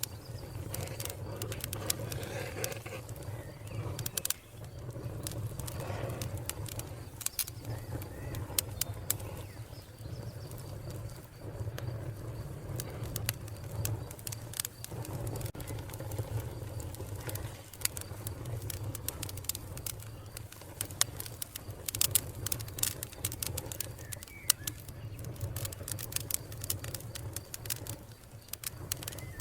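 Wood fire crackling: a steady low rumble with frequent sharp pops and snaps all through, and bird calls now and then behind it.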